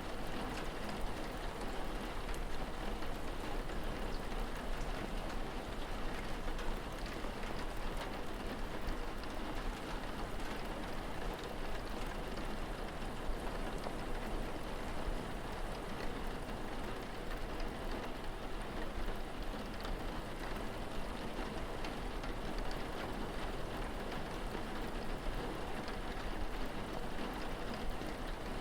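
Steady rain falling, with a dense patter of small drops striking a surface.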